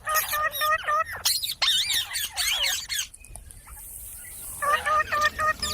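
Indian ringneck parrot calling in quick runs of short, shrill repeated notes, about five a second, then a stretch of calls that swoop up and down in pitch. A pause of about a second and a half comes just past the middle before the rapid notes start again near the end.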